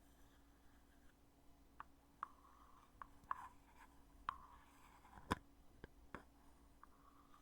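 Heavy lid of a cosmetic foundation container being handled, opened and closed: a run of light clicks and taps with faint scraping between them, and one sharper click about five seconds in.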